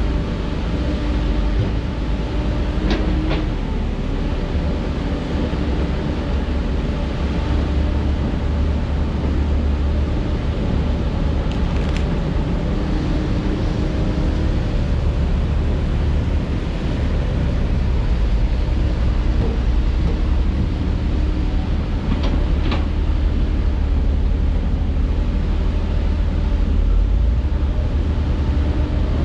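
Heavy diesel construction machinery running steadily with a deep engine rumble, with a few sharp knocks about three seconds in, around twelve seconds and around twenty-two seconds.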